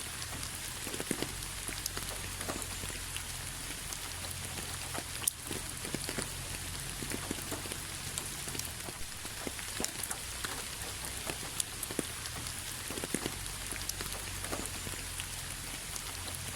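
Steady rain falling, an even hiss with many individual drops landing at irregular moments.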